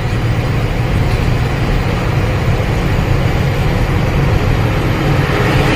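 Truck engine and road noise while driving: a steady low drone with no change in pace.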